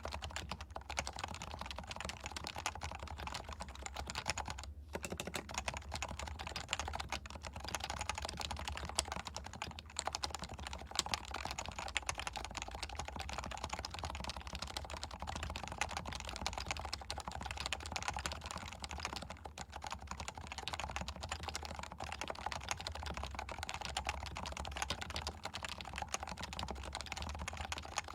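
Steady, fast typing on a Leopold FC660C keyboard with stock, non-silenced 45g Topre electrostatic-capacitive switches, its keys clacking in a continuous stream with a brief pause about five seconds in. Recorded through a Shure MV7 microphone.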